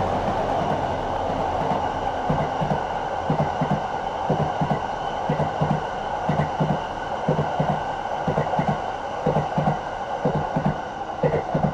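Cassiopeia sleeper train passing, a steady rolling noise with its wheels knocking over the rail joints in quick pairs, bogie after bogie.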